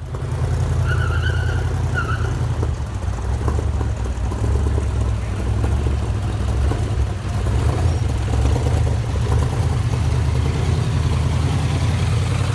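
A car engine running steadily, a deep continuous rumble.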